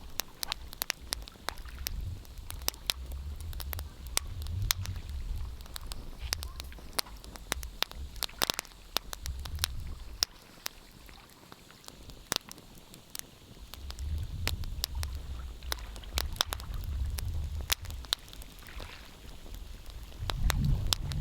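Wood fire crackling, with frequent sharp irregular pops over a low rumble that swells and fades, dropping away for a few seconds midway.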